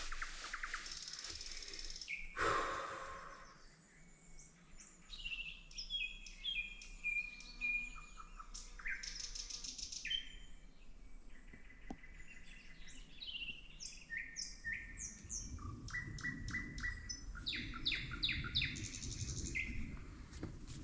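Songbirds chirping and singing, a busy run of short, quick falling notes, with a brief rustling burst early on and a low rumbling noise building underneath in the last few seconds.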